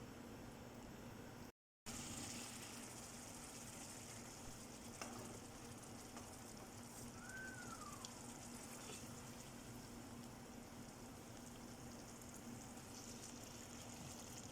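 Faint, steady sizzling of food cooking in a pan on the stove, over a low steady hum.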